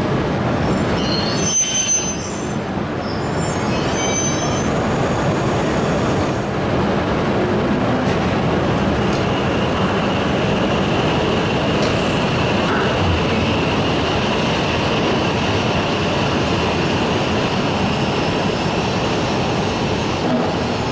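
Shinkansen train moving slowly along the platform just after uncoupling: a steady rumble of wheels on rail. There are brief high squeals in the first few seconds, and a thin steady high squeal from about nine seconds on.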